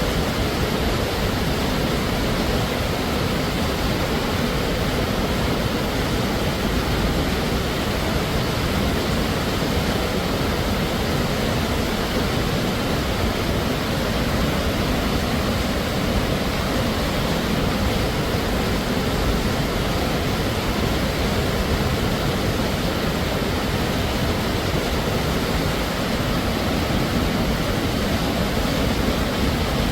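Waterfall pouring steadily, a continuous even rush of falling water with no breaks or separate events.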